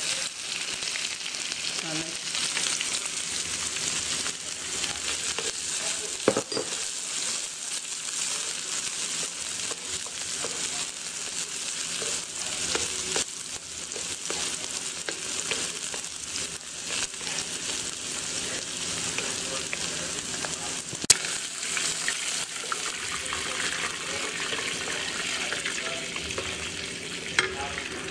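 Oil sizzling steadily in an electric wok as green onion, ginger and dried chilies stir-fry, stirred with a wooden spatula. A few sharp knocks stand out, the loudest about two-thirds of the way through.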